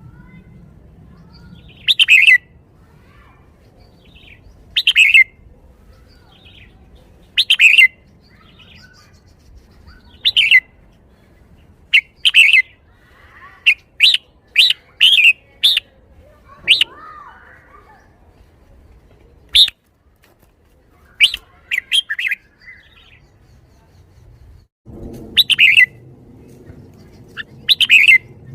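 Red-whiskered bulbul singing: short, loud phrases every two to three seconds, with a quicker run of phrases about halfway through.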